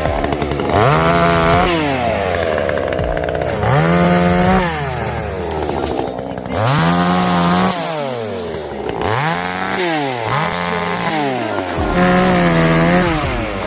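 Two-stroke chainsaw revving up and dropping back about seven times in a row as it cuts wood.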